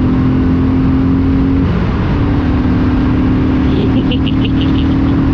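Single-cylinder motorcycle engine running under way, a steady low note with a short break about two seconds in, mixed with road and wind noise.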